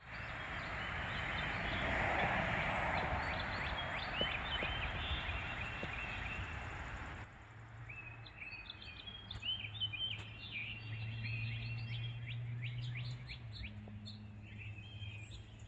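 Small birds chirping repeatedly over steady outdoor background noise. About seven seconds in the sound changes abruptly: the noise drops away, the chirping goes on, and a low steady hum comes in under it.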